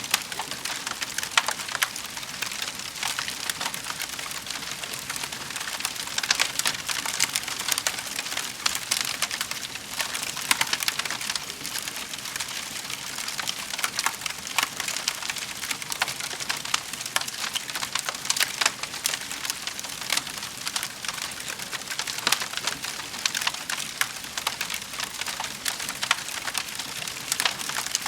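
Fireplace fire crackling steadily, with many small pops and snaps one after another.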